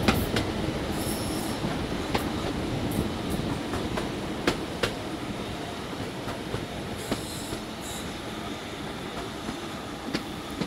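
Class 52 'Western' diesel-hydraulic D1015 and its train running along the line: a steady rumbling run with irregular sharp clicks of wheels over rail joints, and brief high-pitched wheel squeals about a second in and again about seven seconds in.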